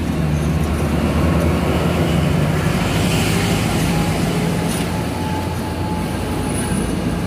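Thai diesel-electric locomotive, an Alsthom of the 4100 class, passing at close range with a steady low engine drone, followed by the rumble of its passenger coaches rolling by on the rails.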